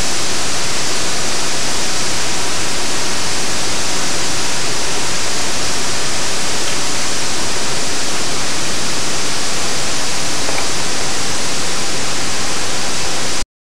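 Waterfall: a steady, loud rush of falling water that cuts off abruptly near the end.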